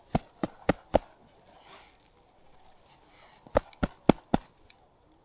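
A hiking shoe knocked against a hard surface to shake out sand: four quick knocks, a pause, then four more.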